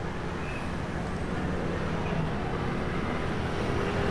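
Steady outdoor background noise with a fluctuating low rumble.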